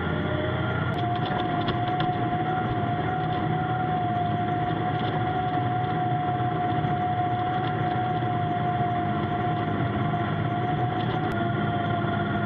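John Deere tractor engine running steadily, with a steady high whine that rises slightly about a second in, holds, and drops back near the end.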